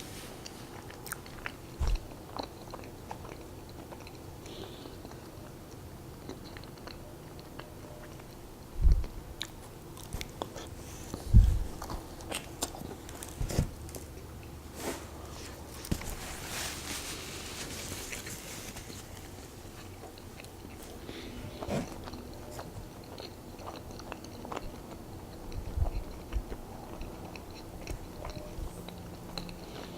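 Close-miked chewing and biting of soft glazed donuts, with small wet mouth clicks throughout. Two dull thumps stand out about nine and eleven seconds in, and there is a short rustling noise around the middle.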